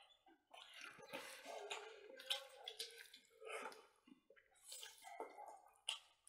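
Faint, close-miked wet chewing and lip-smacking of people eating smoked pork ribs by hand, coming in irregular bursts with a few sharp clicks.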